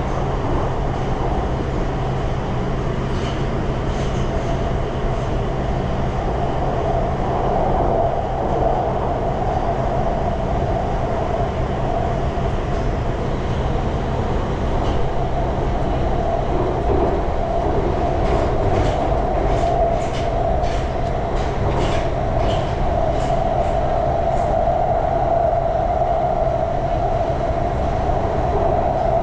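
Budapest M2 metro train (Alstom Metropolis stock) running through the tunnel, heard from inside the car: a steady rumble with a constant hum-like tone. About two-thirds of the way through, a run of clicks comes at about two a second as the wheels pass over rail joints.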